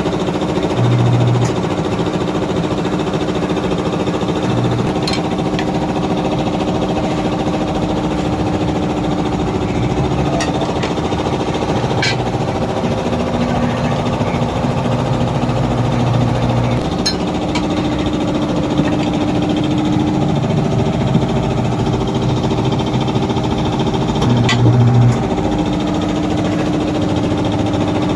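A motor running steadily with a constant hum, with a few short sharp clicks scattered through it.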